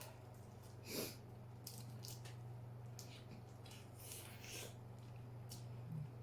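Close-up eating sounds of a person chewing seafood-boil food: scattered wet smacks and squishes, with a louder one about a second in, over a steady low hum.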